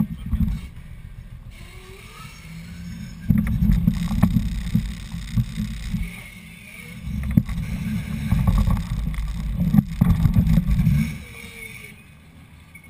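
Off-road 4x4's engine revving hard under load in uneven surges as the vehicle claws its way out of a mud hole, heard from a camera on the bonnet. It comes in loud about three seconds in, eases briefly around the middle and drops off after about eleven seconds.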